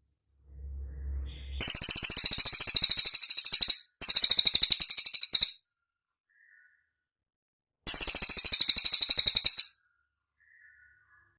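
Cililin bird singing: three bursts of a rapid, high-pitched chattering trill, each lasting about two seconds, with a faint low rumble before the first and a couple of soft short notes in the gaps.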